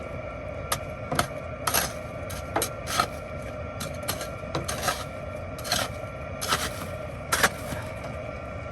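Sharp crunching and clicking of ice, coming irregularly every half second to a second, over a steady low hum.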